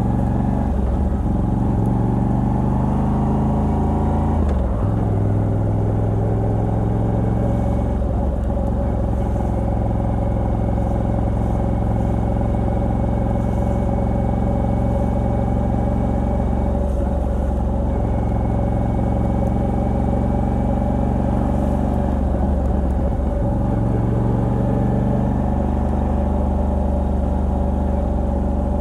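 Moto Guzzi V85TT's air-cooled transverse V-twin, on its stock exhaust with a Mistral decat pipe, running under way. The engine note dips and picks up again at a new pitch four times, like gear changes.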